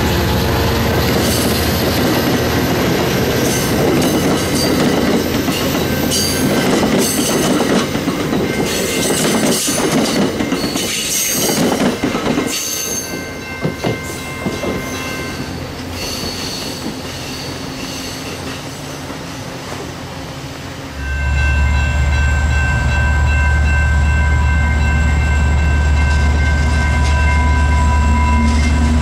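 Bilevel commuter train coaches rolling past over a level crossing, wheels clattering and squealing, then dying away. About two-thirds of the way through the sound jumps to the loud, steady low rumble of an approaching diesel passenger locomotive, with steady high tones held over it.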